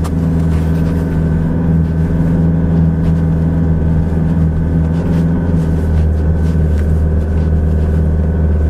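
Car engine pulling steadily in a low gear, heard from inside the cabin, with a steady even drone. Light knocks come now and then as the car jolts over the rutted snowy track.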